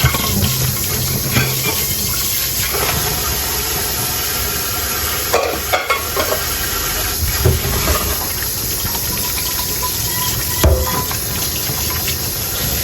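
Tap water running steadily into a sink while dishes are washed by hand, with a few short knocks of tableware, the loudest about ten and a half seconds in.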